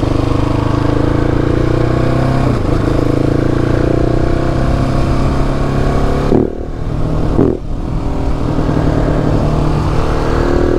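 KTM motorcycle engine running under way. About six seconds in, its note breaks twice in quick succession at gear changes, then the pitch climbs steadily as the bike accelerates.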